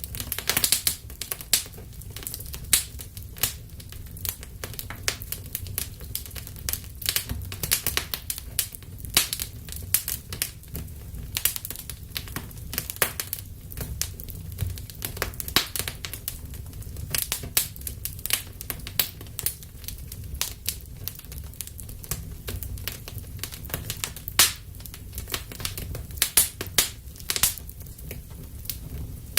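Wood fire burning in a fireplace, crackling with dense, irregular snaps and pops over a low steady rumble of the flames.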